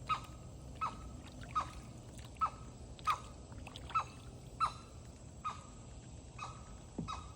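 Kayak paddle strokes dipping into creek water in a steady rhythm, about ten splashes, one every second or less.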